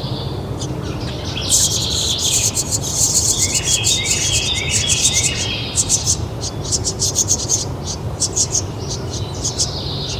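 Songbirds chirping and singing. Rapid high chirps start about a second and a half in, with a run of short repeated notes in the middle, and thin out near the end, over a steady low background noise.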